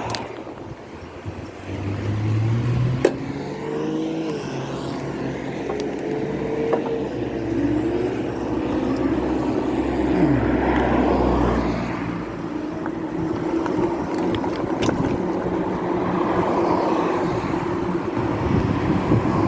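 Motor vehicle sounds: motors running and passing, their pitch rising and falling.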